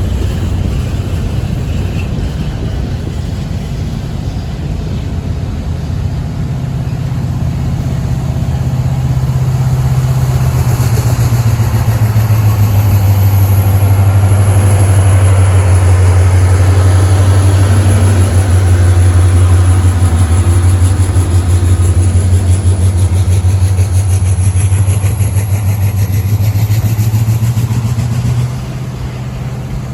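Diesel freight locomotive engine running hard, a deep steady drone that grows louder over the first ten seconds, with a high whine above it; the sound drops off suddenly near the end.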